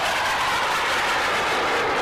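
Loud, steady rush of military aircraft engines as a formation of Corsairs flies past low.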